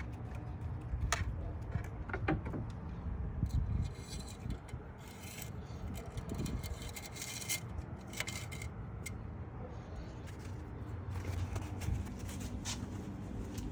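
Handling noise: scattered clicks, rubbing and light metallic clinks, with a brighter rustling stretch in the middle, over a steady low rumble of wind on the microphone.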